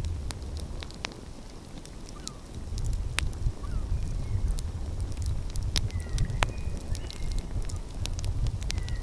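Outdoor wood fire crackling with scattered sharp pops over a steady low rumble. Faint short bird calls come in a few times, most clearly around six to seven seconds in.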